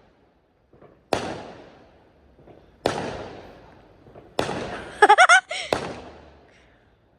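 Fireworks exploding: four sharp bangs about a second and a half apart, each trailing off in a long echoing fade. A brief voice cries out after the third bang.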